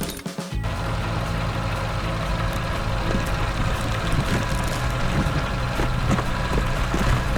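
Heavy vehicle engine running steadily, with a low hum and a noisy rumble that dips for a moment near the start.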